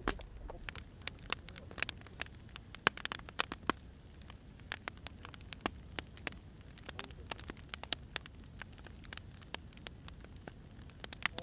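Firewood burning, crackling and popping in sharp, irregular snaps over a low steady hiss of the fire.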